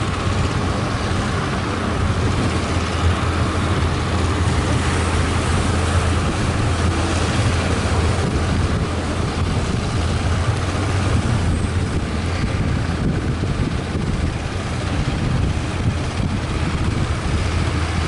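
Fishing boat's engine running steadily with a low drone, under a loud, even rush of wind and water.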